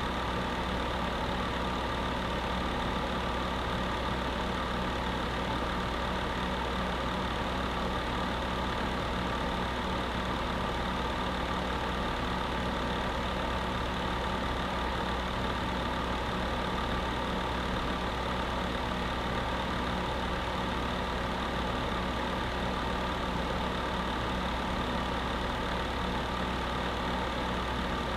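Electric space heater running steadily: an even fan whoosh with a constant low hum and a few steady humming tones, unchanging throughout.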